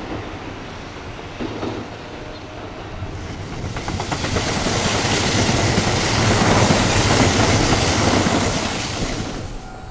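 Kintetsu electric train going by on the track: its rushing noise builds over a few seconds, peaks, then dies away, with a run of wheel clicks over the rail joints as it comes in.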